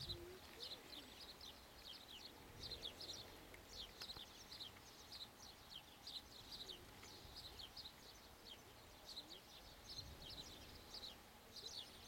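Faint, high-pitched chirping of small birds: quick short notes in loose clusters, several a second.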